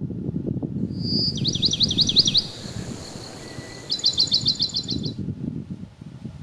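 A songbird singing: a short high note, then a quick run of looping notes, and after a pause a fast, even run of about ten notes. Underneath, wind gusts on the microphone.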